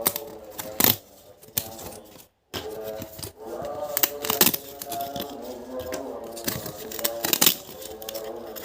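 Background music with several sharp clicks and taps of toy excavator puzzle pieces being handled and fitted together as the wheels go on. The music drops out for a moment about two and a half seconds in.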